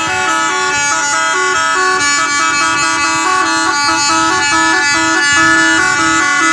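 Special musical vehicle horn playing a tune: several horn tones stepping quickly up and down between notes over a steady held low note, loud and continuous.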